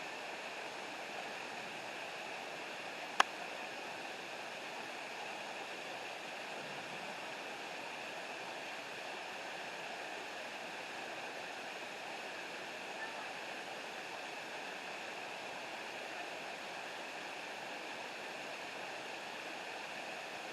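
Steady rushing of a waterfall, with a single sharp click about three seconds in.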